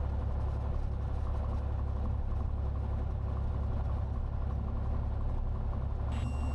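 Cessna 182 Skylane's six-cylinder piston engine running at low power ahead of taxi, a steady low drone. A faint steady high tone comes in near the end.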